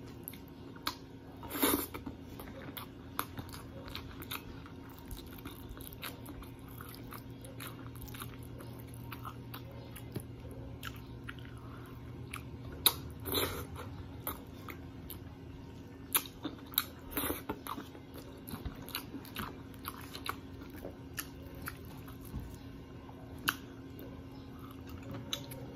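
Close-up mouth sounds of a person eating fried tilapia, laing and rice by hand: chewing with scattered clicks and a few louder crunchy bites. A steady low hum runs underneath.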